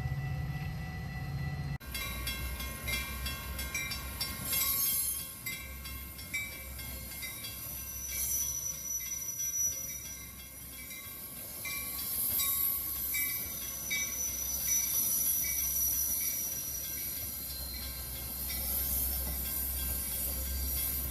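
Train passing with a low rumble and high, shifting metallic squeals from its wheels, starting suddenly about two seconds in.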